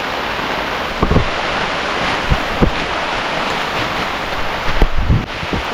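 Heavy rain pouring steadily, with a handful of short dull thumps scattered through it.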